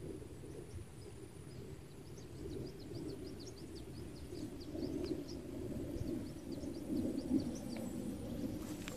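Riverside outdoor ambience: a steady low rushing noise, with a small bird giving a rapid series of short, high, falling chirps from about a second and a half in until near the end.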